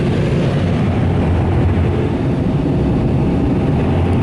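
Car wash air dryer blowers running steadily, a loud, even rush of blown air.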